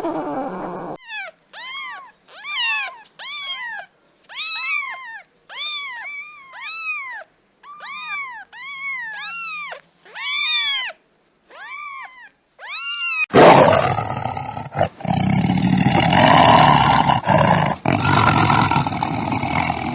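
An animal giving a run of about twenty short, high-pitched calls, each rising and falling in pitch. About two-thirds of the way through, a loud, harsh, rasping animal sound takes over.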